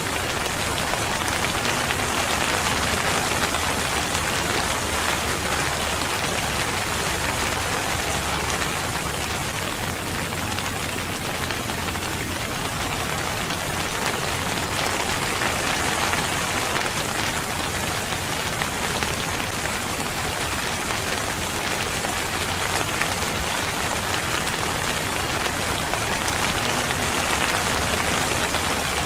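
Steady rain falling and pattering on surfaces, an even continuous hiss of drops.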